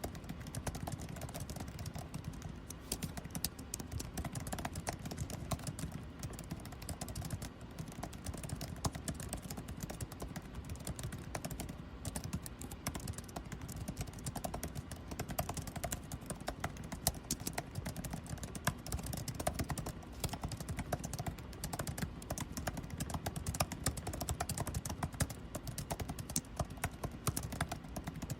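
Rapid, irregular clatter of typing on a computer keyboard, over a steady low hum of air conditioning.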